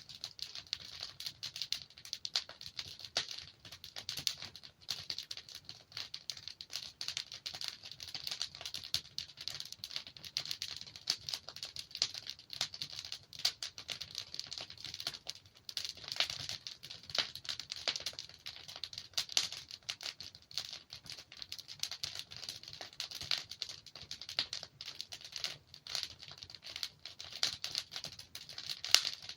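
Logs burning in a fireplace: a steady run of small crackles and pops over a soft low rumble of flame.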